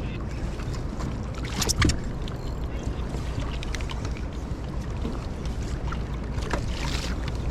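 Choppy sea water sloshing and splashing against a small fishing boat, over a steady low wind rumble on the microphone. Two louder splashes stand out, one about two seconds in and one near the end.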